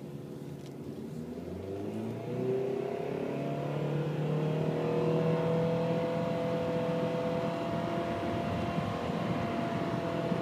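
2012 Nissan Sentra engine accelerating hard through its CVT, heard from inside the cabin. The pitch rises over the first few seconds, then holds steady near 5,000 rpm with no gear shifts while the car gains speed to about 60 mph.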